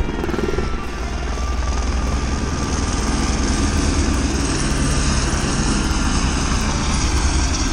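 Helicopter running at close range: a steady, loud rotor and engine noise with a thin high whine over it.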